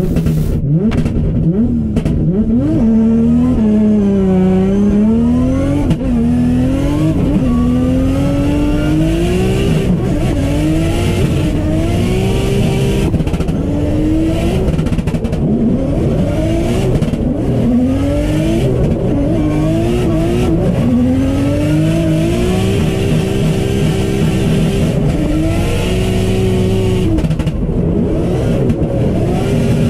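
Drift car's engine, heard from inside the cockpit, revving up and dropping back again and again under hard throttle and gear changes, with some stretches held at high revs.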